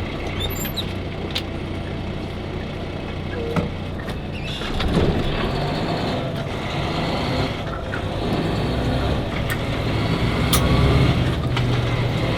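Semi truck driving, heard from inside the cab: a steady low engine drone with road noise and a few light clicks and rattles. It grows louder a little under five seconds in.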